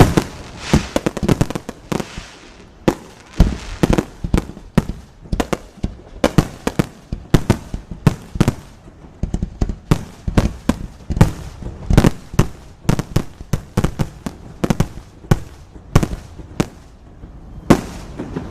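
Fireworks display: a rapid string of aerial shell bursts, often several bangs a second, each followed by a brief rumble and crackle.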